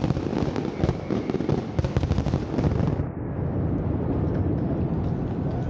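Fireworks going off in a dense run of bangs and crackles, many a second. About halfway through they give way abruptly to a dull, steady rumbling noise.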